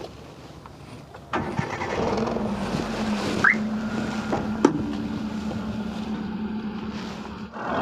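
Hyundai Santro's four-cylinder petrol engine starting about a second and a half in, then idling steadily. One sharp click about two thirds of the way through.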